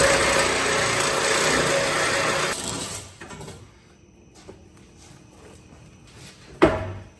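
A power tool runs steadily with a constant whine for about two and a half seconds, then stops abruptly; a single sharp knock follows near the end.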